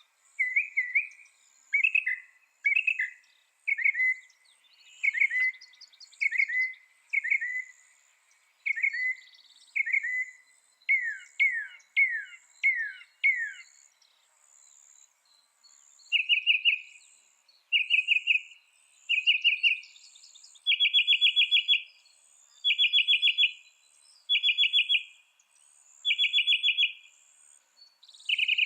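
Mockingbird singing, repeating one sliding whistled phrase about once a second. About halfway through it switches to a buzzy, rapidly pulsed note, repeated the same way, in the mockingbird's habit of repeating each phrase several times before changing.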